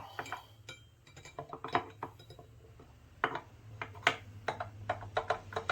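Steel parts of a Peerless 206 transaxle clinking and knocking as they are fitted into the case by hand, a string of irregular sharp metallic clicks.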